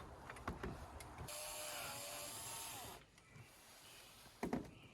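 Cordless drill driving a screw: a short steady whir about a second in, lasting under two seconds, its pitch dropping as the trigger is let go. A few small clicks, and a single knock near the end.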